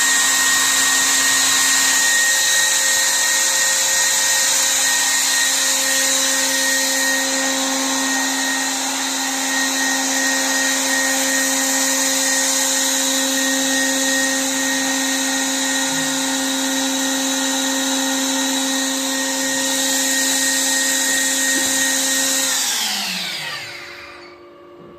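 Hebrock Top 2000 automatic edgebanding machine running with a steady motor whine and hiss. About 22 seconds in, its motors are switched off and wind down, the pitch falling over a couple of seconds until only a faint hum is left.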